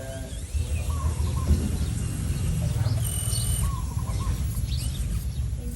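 Birds chirping a few short calls over a steady low rumble.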